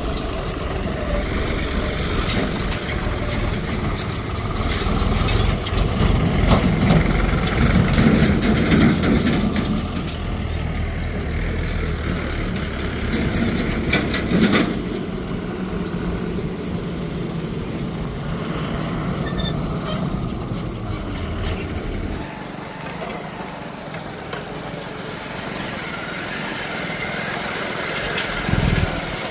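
Heavy diesel vehicle engine running at idle, with a louder stretch early on and scattered knocks; the low rumble drops away about two-thirds of the way through.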